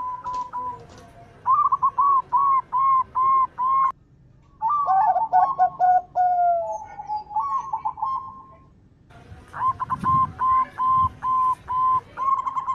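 Zebra doves (perkutut) cooing: strings of quick, evenly spaced coos, about two to three a second, with overlapping phrases in the middle and short breaks about four and nine seconds in.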